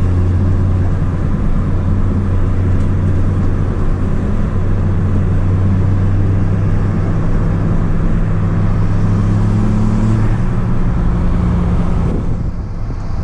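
Audi S3 8P's turbocharged 2.0 TFSI four-cylinder engine, fitted with an aftermarket downpipe, pulling steadily under load on the drive. Its pitch rises slightly, then the engine note falls away and quietens about twelve seconds in.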